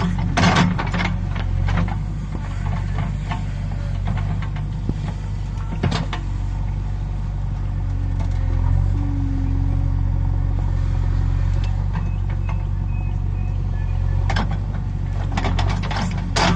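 Heavy vehicle's diesel engine running steadily, with a few sharp knocks near the start, one about six seconds in, and a cluster near the end.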